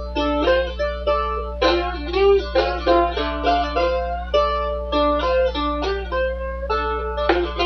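Plucked string instrument played with a slide, repeating a simple back-and-forth blues riff whose notes bend up into pitch from just below the fret. A steady low hum sits under it.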